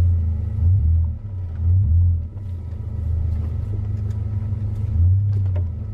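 A 5th-generation Honda Prelude's H22A4 four-cylinder engine running at low speed, heard from inside the cabin, as a steady low hum that swells briefly three times.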